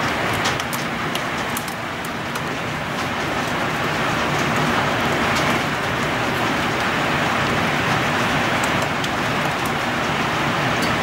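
Heavy rain falling steadily on trees and surfaces during a storm, with a few sharp ticks of drops striking close by.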